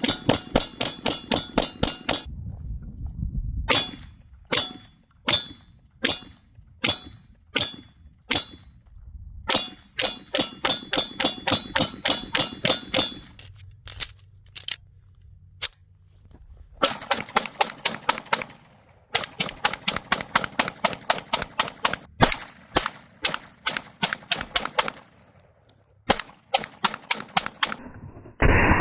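ZRO FKS-9 9mm pistol, a Glock clone, being fired in quick strings of about five shots a second, with runs of slower single shots about two-thirds of a second apart in between.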